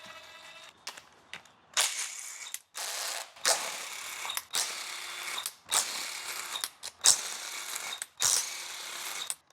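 A ratchet clicking in about seven short runs, each half a second to a second long, starting about two seconds in. It is loosening the valve cover bolts on a GM 3.6 V6.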